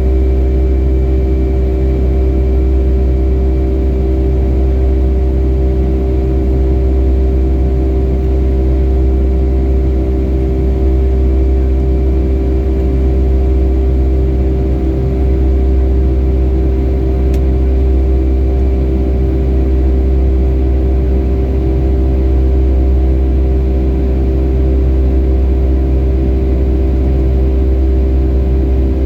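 Cabin noise inside a Boeing 757-300 with its jet engines running: a steady, loud drone made of a deep rumble and a constant hum of several tones. The pitch does not change.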